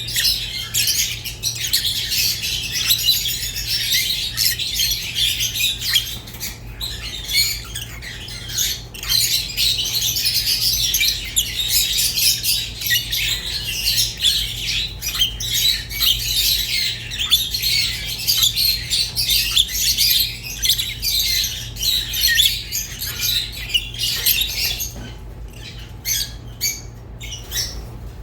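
Rosy-faced and Fischer's lovebirds chirping and squawking in a dense, high-pitched chatter that thins out near the end, over a steady low electrical hum.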